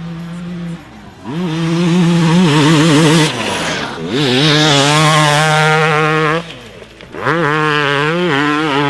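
Yamaha YZ250X single-cylinder two-stroke dirt bike engine, through a Pro Circuit pipe and silencer, revving hard in three rising pulls as the bike is ridden. Each pull climbs, holds and drops off, after a short steady tone at the start.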